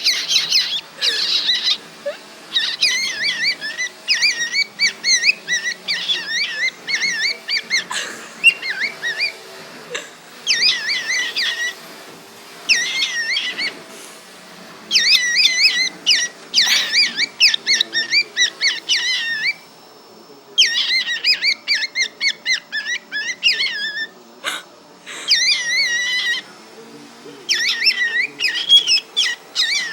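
Cockatiel warbling and chattering in quick, twisting bursts of chirps, each bout a few seconds long with short pauses between.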